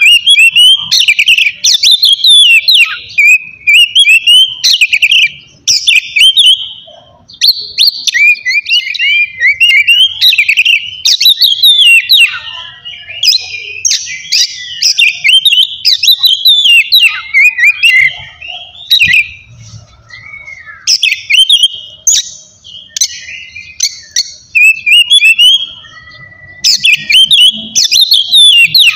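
Oriental magpie-robin (kacer) singing loudly and continuously, a fast run of varied whistled phrases with rising and falling glides and sharp chips, broken by short pauses.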